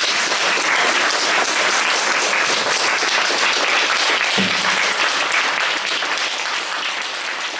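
Audience applauding steadily, the clapping thinning out towards the end.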